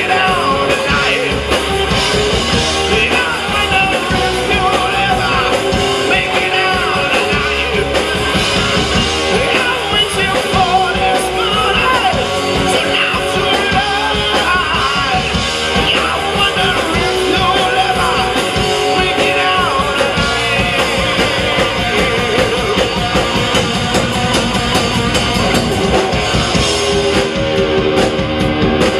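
Live rock band playing, with sung and yelled vocals over electric guitar and drums.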